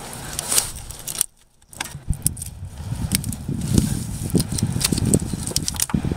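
Irregular metallic clinking and knocking, as of hand tools at work, broken by a brief silence about a second in.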